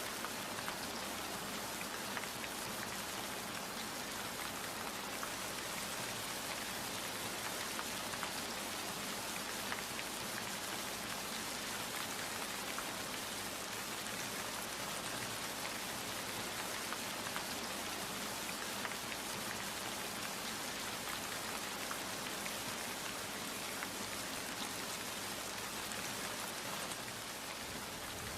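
Steady rain falling, a dense even hiss of many drops with fine scattered drop ticks.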